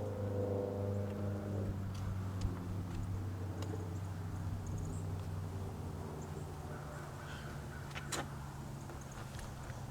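A vehicle engine idling with a steady low hum. A higher whine fades out in the first two seconds, and there are a few light clicks.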